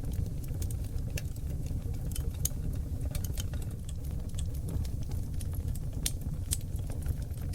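Wood fire burning on seasoned oak logs, crackling with frequent small, irregular pops over a steady low rumble of the flames.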